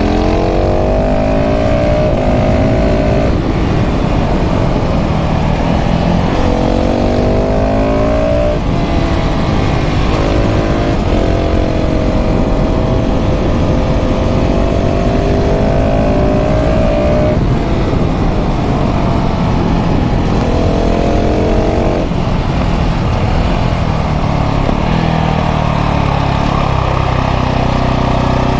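KTM 690 SMC R's LC4 single-cylinder engine through a full LeoVince exhaust, heard from on board while riding. It pulls up through the gears several times, rising in pitch and dropping at each shift. It holds a steadier note for a few seconds in the middle and winds down then picks up again near the end.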